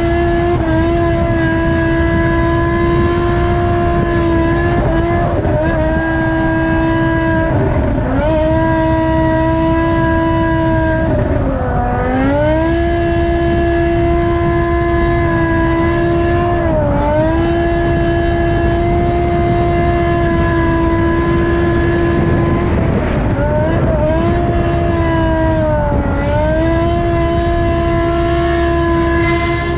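High, steady whine of a 4-inch FPV racing quadcopter's brushless motors and four-blade props. The pitch dips and climbs back a few times as the throttle is eased and reapplied. Under it runs a low rumble from the drifting BMW M5's V10.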